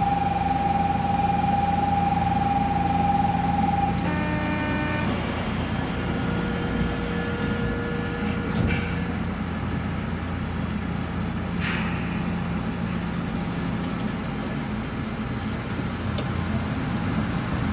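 Osaka Metro New Tram, a driverless rubber-tyred train, running with a steady low rumble. A steady high whine sounds for the first four seconds, a short electronic tone follows, and there is a sharp click near the twelve-second mark.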